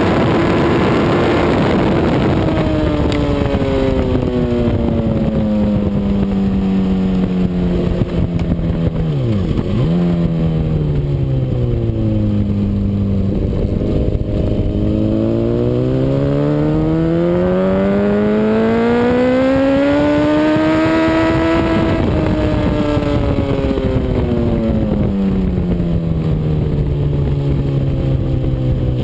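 Honda CBR RR sportbike engine on track, its revs falling over several seconds with one quick drop and recovery near ten seconds in, then running low and steady before rising in a long climb to a peak a little past twenty seconds and falling away again. A steady rushing noise sits under the engine throughout.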